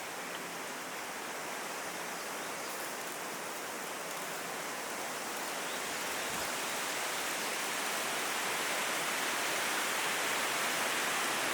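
Strong wind: a steady rushing noise that slowly grows louder toward the end.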